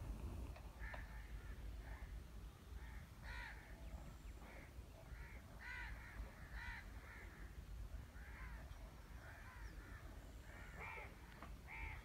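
Faint bird calls: many short, harsh calls repeating irregularly, about one or two a second, over a low steady rumble.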